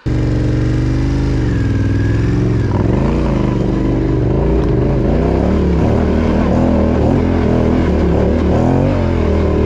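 Yamaha Ténéré 700's parallel-twin engine running hard under throttle, the revs rising and falling repeatedly as the bike is ridden through slippery rocky off-road ground.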